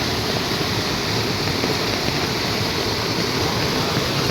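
Steady heavy rain, a constant even hiss.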